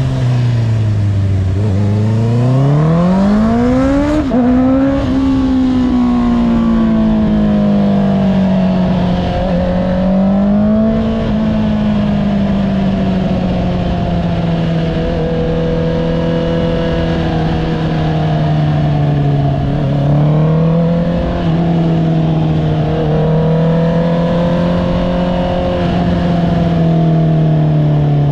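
Honda CBR650R's inline-four engine with an Akrapovic exhaust, heard while riding: the revs drop, then climb steeply about two to four seconds in and step down with an upshift. A second upshift comes about a third of the way in, then it cruises at fairly steady revs with small dips.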